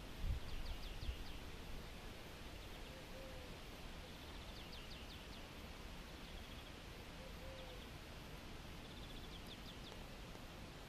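A small bird singing a short phrase of quick, falling high notes, opened by a brief trill and repeated three times about four seconds apart, over a steady outdoor hiss. A short low note also comes back every four seconds or so, and a couple of low thumps sound in the first second.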